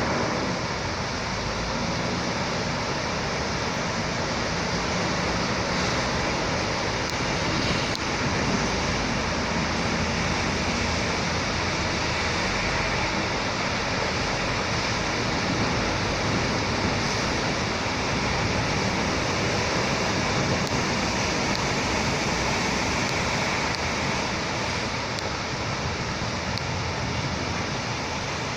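Steady rain falling on a city street, an even hiss, with the low rumble of passing traffic underneath that eases near the end.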